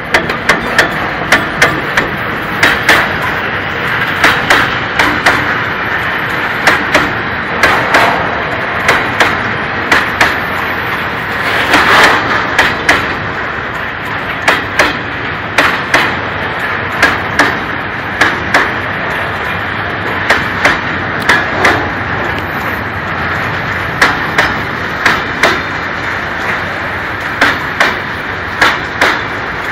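Freight train of tank wagons rolling past close by: a steady rolling rumble with loud clacks coming in quick groups as the wheelsets pass over the rail joints.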